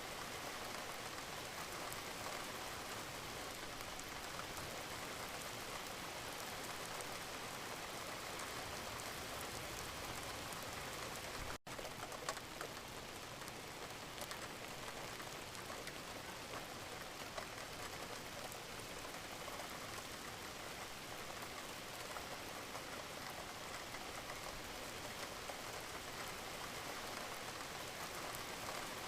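Steady, even rainfall with scattered individual drops ticking. It cuts out for an instant partway through, then carries on unchanged.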